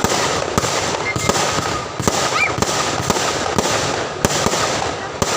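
Fireworks display going off in quick succession: a dense run of sharp bangs over continuous crackling, with a short rising whistle a little over two seconds in.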